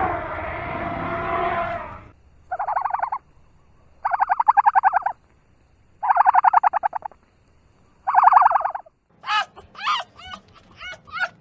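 Animal calls: a harsh call that stops about two seconds in, then four rapid rattling bird calls about two seconds apart, then a run of short, sharp calls falling in pitch near the end.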